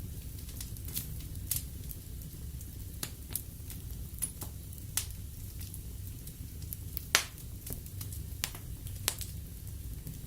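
Wood fire burning in a fireplace: irregular sharp crackles and pops over a low steady rumble of the flames, with the loudest pop about seven seconds in.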